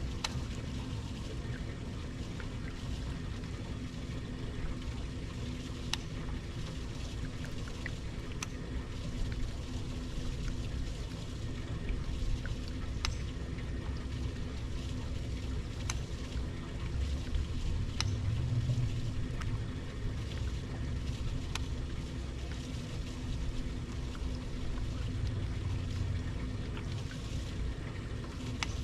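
A boat on the water: a steady low rumble with water sounds and a few faint clicks scattered through.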